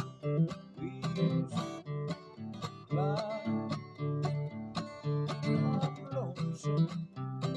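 Music: strummed acoustic guitar in a steady rhythm, with a wavering melody line over it.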